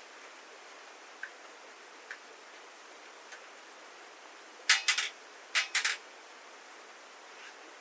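Metal cooking utensils clinking and clattering against the fire pit's metal parts in two quick groups a little past halfway, over a steady hiss, with a few faint ticks before.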